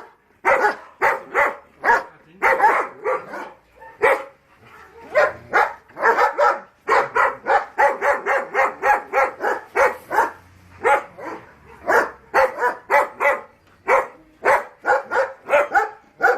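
German Shepherd dogs barking over and over in quick runs of about two to three barks a second, broken by short pauses.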